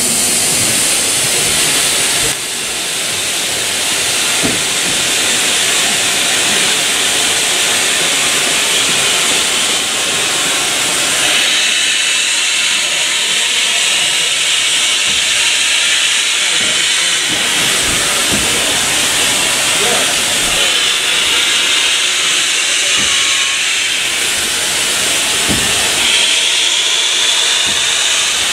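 Steam locomotive letting off steam: a loud, steady hiss that changes abruptly several times.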